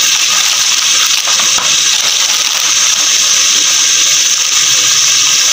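Chicken curry sizzling in an aluminium pot on a gas stove: a steady, even hiss.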